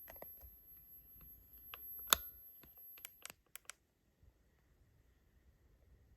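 Dead air on the broadcast with a scatter of sharp clicks and taps, like keyboard typing, over a faint high whine. The whine stops about three seconds in, and the second half is nearly silent.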